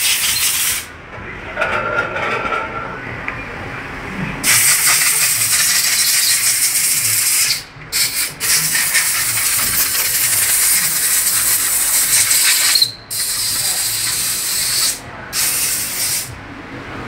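Pressurised gas hissing from a nozzle in several long bursts of a few seconds each, cutting off sharply between them.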